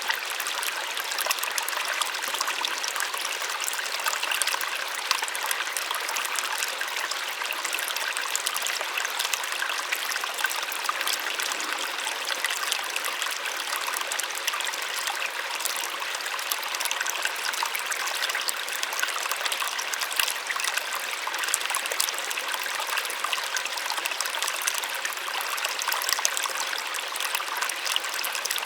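Small waterfall splashing steadily into a pool, a continuous bright rush with fine splattering detail and little low rumble.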